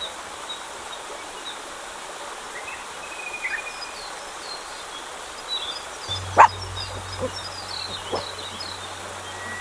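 A dog barks three times in the second half, the first bark the loudest, over birds chirping and a steady outdoor background hiss.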